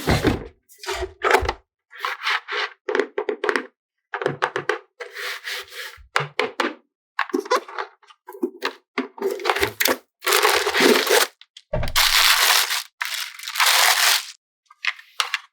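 Hands handling plastic toy packaging and toy pieces: a string of short scraping and rubbing noises with brief silent gaps between them, longer and louder near the end.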